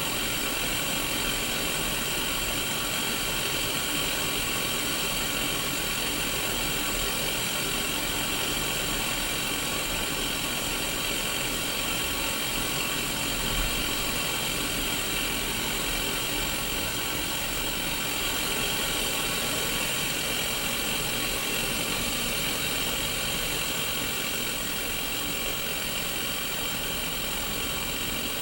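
Untuned Sony Mega Watchman black-and-white mini CRT television playing static: a steady, even hiss with a faint low hum underneath.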